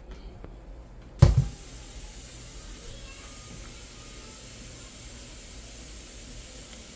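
A single loud thump about a second in, followed by a steady hiss.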